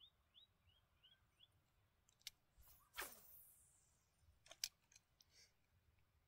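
Near silence with a faint run of short rising bird chirps, about four a second, in the first second and a half. After that come a few sharp clicks, a brief swish about three seconds in, and one louder click a little later.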